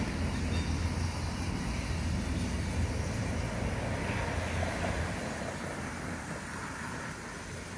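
New Caltrain Stadler KISS electric double-deck cars rolling slowly past under tow, steel wheels on rail with a steady low rumble. The sound fades after about five seconds as the train moves on.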